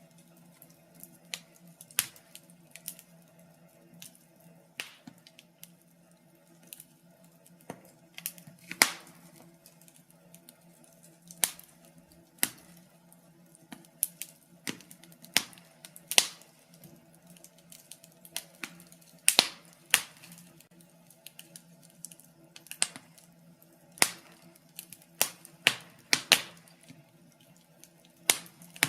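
Wood fire in a fireplace crackling, with irregular sharp pops and snaps, some much louder than others.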